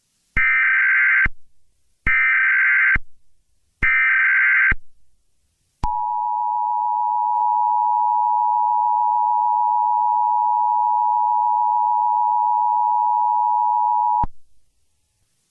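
Emergency Alert System tones: three short bursts of SAME header data, a harsh digital buzz of about a second each with brief gaps, followed by the EAS two-tone attention signal, a steady dual tone held for about eight seconds before it cuts off.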